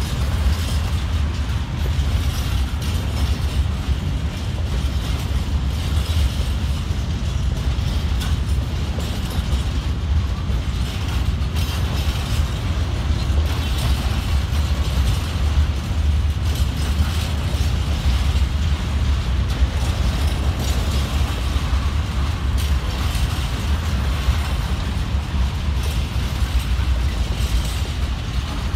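Freight train wagons rolling steadily past at close range: a continuous low rumble of steel wheels on rail, with repeated clatter and clicks from the wheels and couplings.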